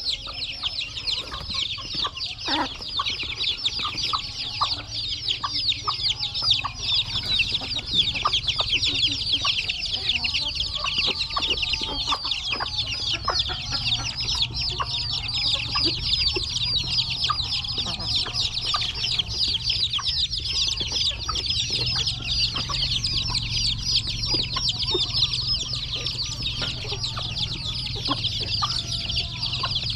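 A brood of young chicks peeping continuously, many high chirps overlapping, with scattered light taps and a steady low hum underneath.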